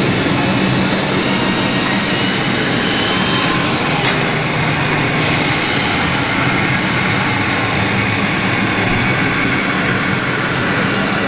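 Radio-controlled model construction vehicles running, a steady engine sound with no sharp knocks or pauses.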